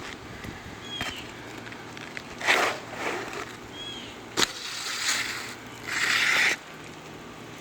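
Asphalt roof shingles being scraped and pried loose: several crunching scrapes, the longest lasting about half a second near the end, and one sharp knock about four and a half seconds in.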